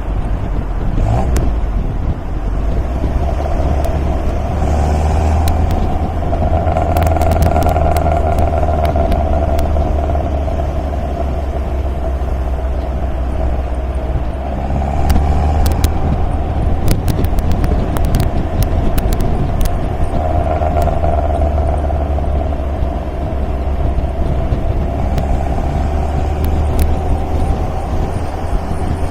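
MG MGA's four-cylinder engine running steadily while the car is driven, its note swelling a little at times, with scattered sharp ticks around the middle.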